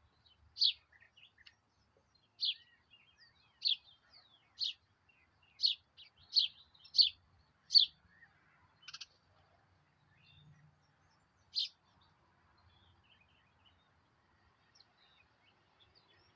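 A bird giving short, sharp, high-pitched chirps, about ten of them at uneven intervals over the first twelve seconds, then falling quiet.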